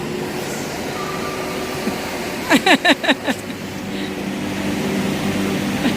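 Steady rushing air and hum of an electric blower fan. About halfway through, a high voice gives a short burst of about five quick falling cries.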